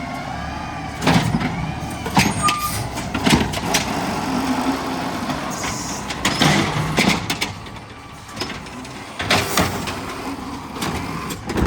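Garbage truck running, with a series of loud clanks and bangs at irregular intervals over its engine.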